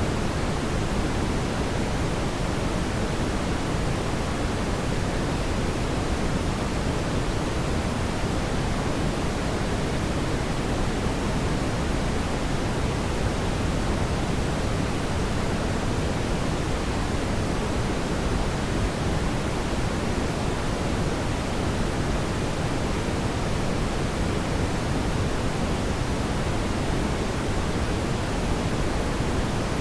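A steady, even rushing noise, heaviest in the low end, with no distinct crackles or pops standing out.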